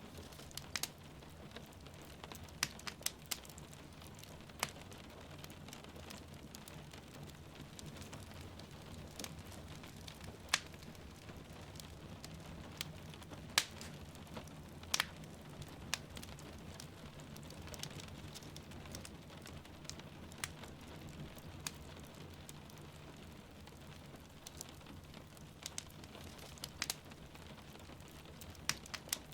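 Wood fire crackling in a fireplace, with irregular sharp pops, a few louder than the rest, over the steady hiss of rain falling and a low, even rumble.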